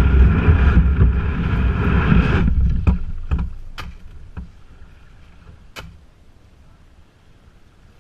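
Loud rumble of wind and water on the microphone aboard a kayak, which drops away about two and a half seconds in. A handful of short, sharp knocks and clicks follow over a quiet background.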